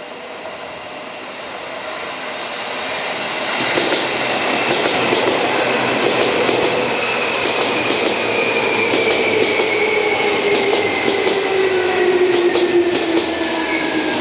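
Seibu 2000-series electric commuter train arriving and slowing to a stop. It grows louder over the first few seconds as it approaches, then its wheels clatter over rail joints as the cars pass close by, with a whine that falls steadily in pitch as it slows.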